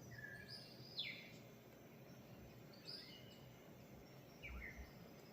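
Faint birdsong: a few short high chirps that slide downward in pitch, spaced a second or two apart, over a low steady background hiss.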